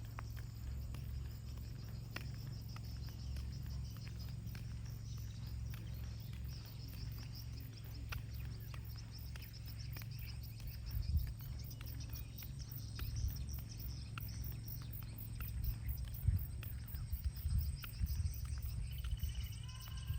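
Insects, crickets by their sound, chirring steadily in the background while footsteps tread along a path and wind rumbles low on the microphone; the steps grow louder in the second half, and a bird gives a short whistled call near the end.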